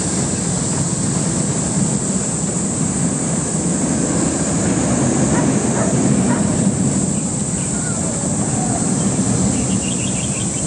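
A roller coaster train running along its steel track: a steady, loud rumble.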